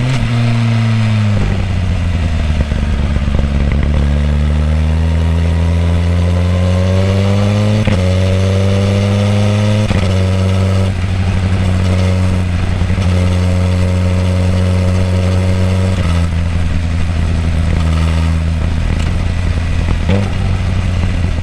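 Suzuki GSX-R1000R L8's inline-four exhaust through its stock muffler, heard close to the muffler while riding. The pitch dips, then climbs steadily as the bike accelerates, with brief breaks about eight and ten seconds in like gear changes, then holds steady at cruising revs, dropping a little about sixteen seconds in.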